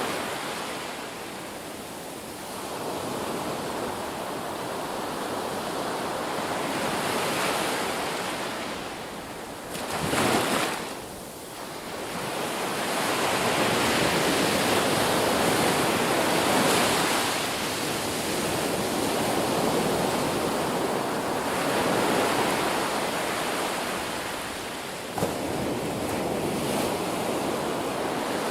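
Ocean waves breaking and washing on the shore, the surf swelling and ebbing every few seconds, with one short, sharp crash about ten seconds in.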